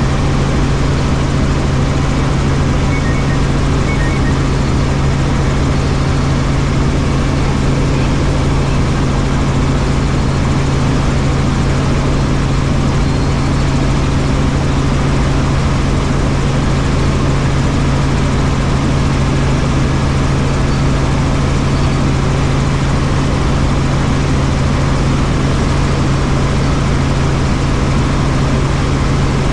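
Helicopter in flight: steady rotor and engine noise, a constant low drone under even noise that does not change.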